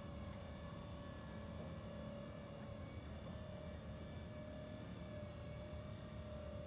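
A motor running steadily, with a constant whine over a low rumble.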